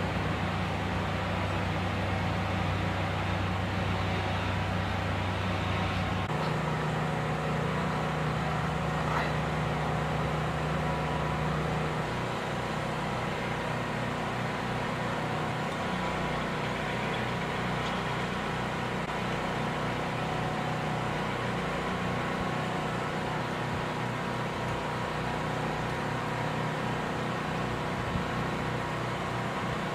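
A machine's engine running steadily with a low hum, its tone changing abruptly about six seconds in and again about twelve seconds in.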